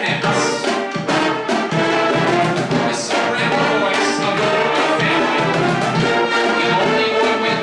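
High school marching band playing live: a brass melody of trumpets and trombones over drum strikes and cymbal crashes.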